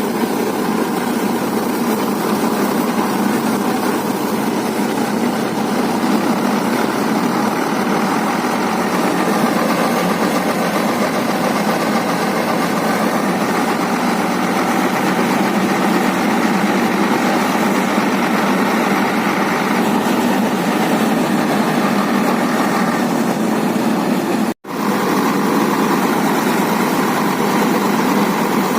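Tractor and harvesting machine running steadily, a dense, even engine and machinery noise. It drops out for an instant near the end.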